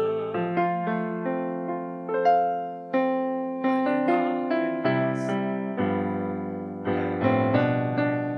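Piano playing a slow, gentle passage of chords, each struck and left to ring and fade.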